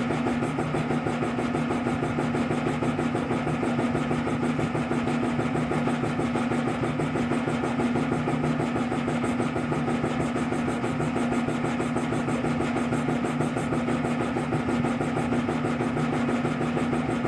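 A steady mechanical hum from a running motor or engine, unchanging in pitch and level, with fine rapid pulsing.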